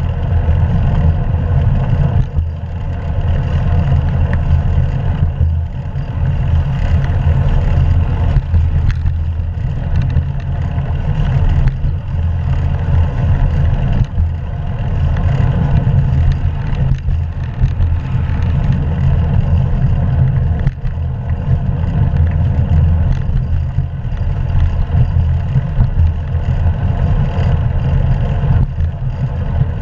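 Steady wind rumble and road noise on an action camera's microphone while riding a bicycle, mostly low and unbroken.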